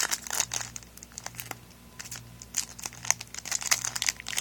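Foil booster-pack wrappers crinkling and tearing as Yu-Gi-Oh trading card packs are handled and opened, in bursts of crisp crackles with a quieter lull in the middle.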